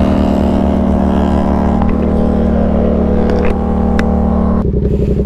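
Motorcycle engine running steadily with a low hum. Near the end the sound changes abruptly: the higher hiss falls away, leaving an even, pulsing throb.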